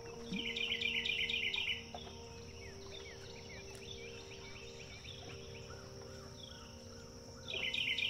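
Birds chirping: a loud rapid run of repeated chirps lasting about a second and a half near the start, and again near the end, with scattered short falling whistles in between, over a faint steady hum.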